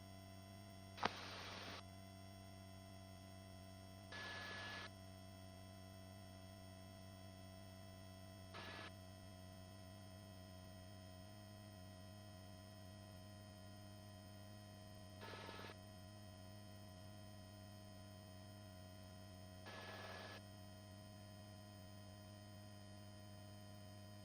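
Faint steady hum of several fixed tones on a helicopter's intercom audio feed, broken five times by short bursts of hiss lasting under a second each, the first starting with a sharp click.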